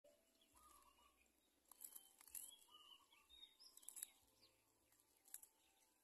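Faint chirps and short whistled calls of small birds, with a few sharp clicks about two, two and a half, four and five seconds in.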